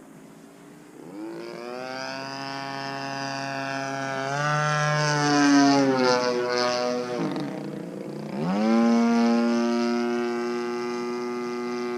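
DLE 35RA single-cylinder two-stroke gas engine on an RC aerobatic plane, with its propeller. It is throttled up from idle about a second in and climbs again near the middle. The revs then sag and rise back up about two-thirds of the way through, and it runs steadily at high revs to the end.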